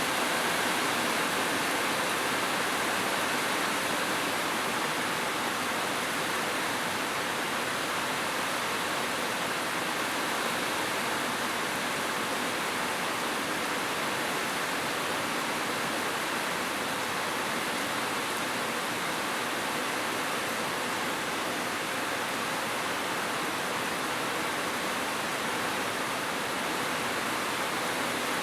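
Heavy rain falling steadily on a roof, an even unbroken hiss with no separate drops or thunder standing out.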